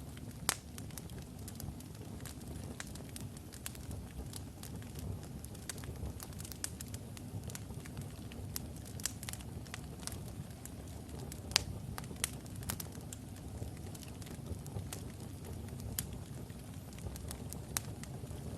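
Wood logs burning in a fireplace: a steady low rumble of the flames with irregular crackles and sharp pops, a few louder snaps scattered through.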